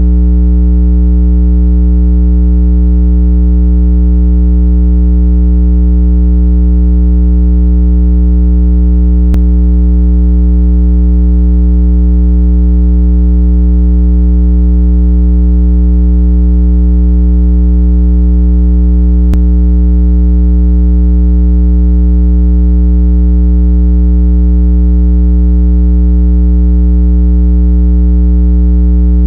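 A continuous low electronic tone with a stack of evenly spaced overtones, steady in pitch and loudness. It is a speaker water-eject cleaning tone, billed as 165 Hz, played to shake trapped water out of earbud and phone speakers. A faint click comes twice, about ten seconds apart.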